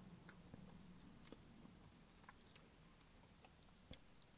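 Faint close-miked mouth sounds of a person chewing a bite of pizza, with scattered soft wet clicks, a short cluster of them about two and a half seconds in.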